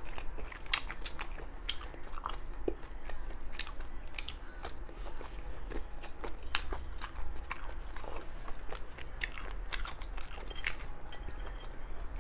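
A person chewing abalone close to the microphone: irregular wet mouth clicks and smacks, with short pauses between bites.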